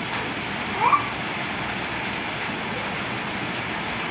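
Heavy rain pouring down with a steady hiss. About a second in there is one short rising cry, like a child's voice.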